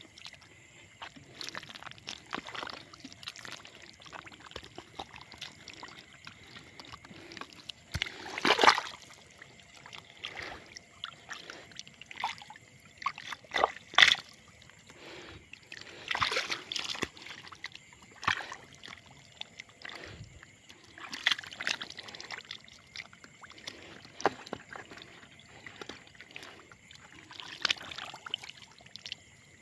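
Water splashing and sloshing in irregular bursts, with the loudest splashes about 8 and 14 seconds in and a cluster around 16 to 17 seconds. It is the splashing of fish being caught in shallow water.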